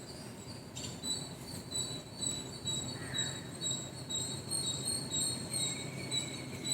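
Early-morning birds chirping: a steady stream of short, high, thin notes repeating over a low, even background hum.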